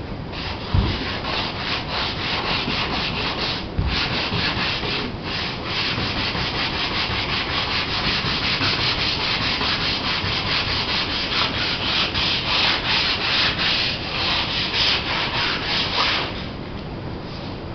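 Sandpaper scrubbing by hand on a Laser sailboat's fiberglass hull in quick back-and-forth strokes, about three or four a second, sanding off grime to prepare it for paint. There are two light knocks in the first four seconds, and the sanding stops about a second before the end.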